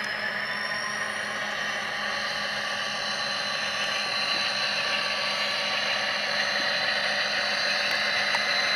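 Tsunami sound decoder in a model SD45-2 locomotive playing EMD 645 diesel engine sound through its small speaker, running steadily and growing slightly louder.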